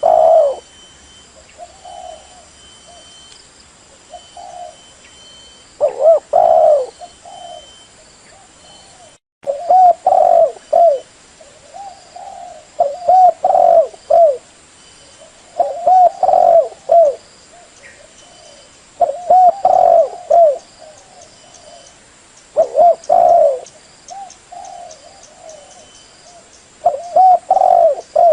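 Spotted dove cooing: a loud phrase of several coo notes repeated about every three to four seconds, with fainter coos in between. This is a decoy call used to lure wild doves to a trap.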